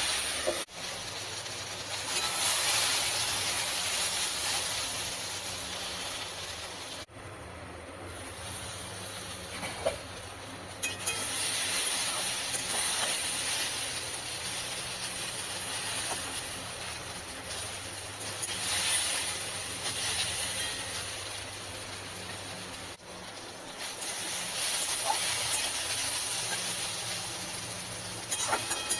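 Potatoes and okra frying in oil in a pan: a steady sizzling hiss over a low hum, which drops out abruptly a few times.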